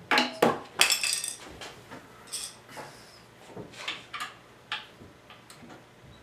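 Hard objects clinking and clattering as they are handled, a quick cluster of sharp clanks in the first second and a half, then scattered lighter clicks.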